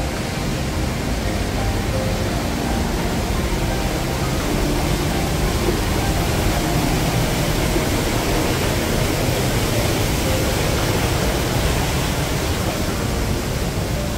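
Steady rush of a mountain river's water tumbling through rocks, loud and unbroken.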